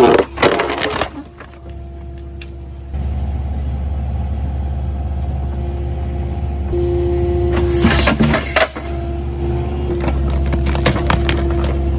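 Kubota 080 excavator's diesel engine running with a steady whine, easing off for a couple of seconds near the start. Bursts of sharp cracking and snapping, at the start and loudest about eight seconds in, as the BioJack tree shear grapple cuts and crushes wood.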